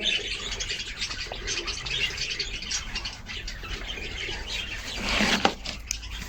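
Many small birds chirping continuously, with overlapping short calls.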